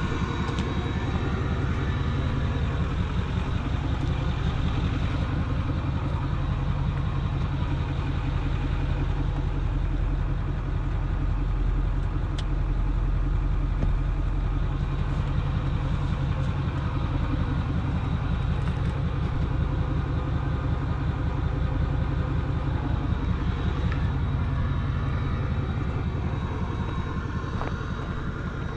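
A vehicle engine running steadily at low speed close by, its firing pulses even and unchanging throughout.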